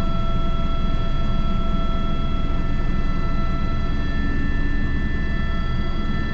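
Airbus H125 helicopter in flight, heard from the cockpit: a steady low rotor and engine rumble under a constant high turbine whine made of several steady tones.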